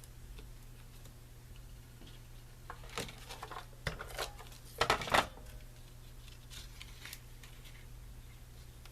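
Paper and card being handled on a tabletop: a short run of rustles, taps and scrapes about three to five seconds in, the loudest a quick rustle near the middle.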